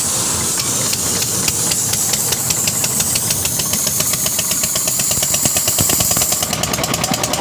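Truck's diesel engine running with a knocking beat that speeds up as it is revved, under a steady hiss of air. The engine is building up air pressure for the pneumatic wheel-nut gun, which lacked pressure to undo the nut.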